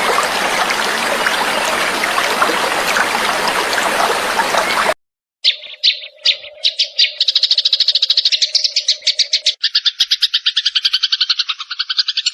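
Trickling water for about the first five seconds, cutting off abruptly; after a brief gap a songbird starts a fast, buzzing trill of rapid even pulses that runs on to the end.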